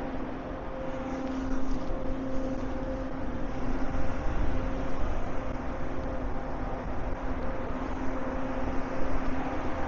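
Steady urban background noise: an uneven low rumble under a constant low hum.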